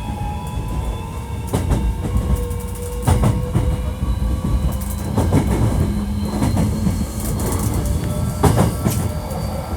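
Hankyu 1300 series electric train running at speed: a steady low rumble of wheels on rail, with sharp clacks over rail joints five times. Over it sound several thin whining tones from the Toyo IGBT VVVF inverter and traction motors, drifting slowly in pitch, mostly rising.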